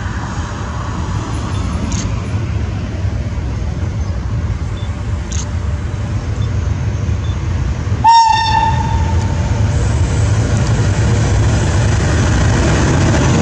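FS E.652 electric locomotive hauling a freight train of covered wagons, the rumble of the train building steadily as it approaches. About eight seconds in the locomotive sounds one short horn blast on a single tone, the loudest sound.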